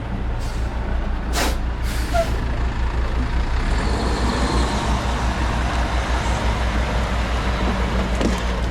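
Loaded diesel dump truck with its engine running and two short air-brake hisses about a second and a half and two seconds in. The engine noise then grows louder and fuller from about three seconds in.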